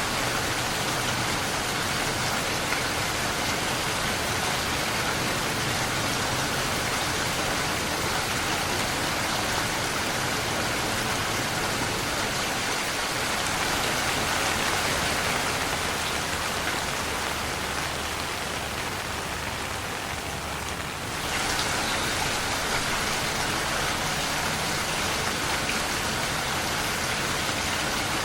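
Steady, dense rainfall hiss. A little past two-thirds of the way through it briefly softens, then abruptly comes back to full strength.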